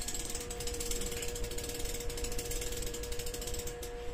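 Ratchet handle of a Cqstart spring starter being cranked to wind up its spring for a diesel engine start, the pawl clicking rapidly and evenly, with a faint steady hum underneath.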